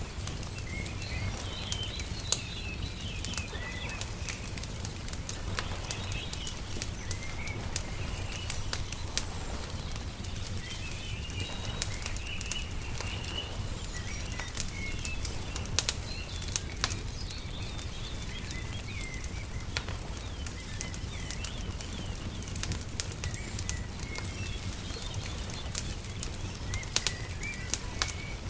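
Wood fire crackling with irregular sharp pops, over a steady low rumble, while small birds chirp and trill.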